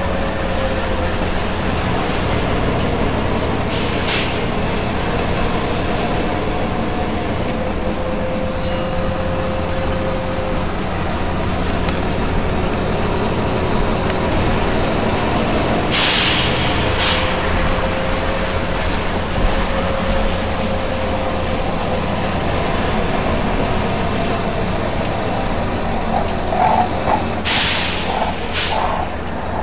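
Volvo B9TL double-decker bus running steadily, with a faint whine that rises and falls. Its compressed-air system lets out short sharp hisses several times: once about four seconds in, a pair around the middle and another cluster near the end.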